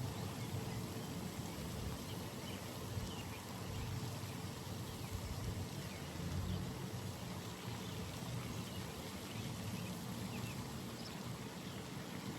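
Steady outdoor pond ambience: a continuous rush like running water over a low rumble, with faint short bird chirps here and there.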